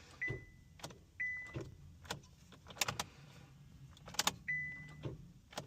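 A 2014 Kia Optima failing to crank on a weak battery: sharp clicks from the starting circuit and a dash warning chime beeping several times, with no engine turning over.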